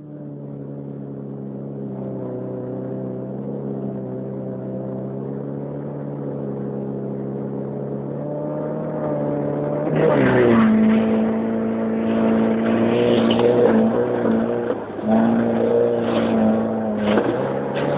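Moskvitch car engine running at steady revs, then revving up sharply about ten seconds in and held at high revs, with a brief lift of the throttle about five seconds later.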